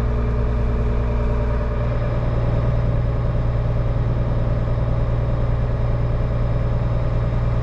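Farm tractor's diesel engine running steadily, a low even drone heard from inside the cab.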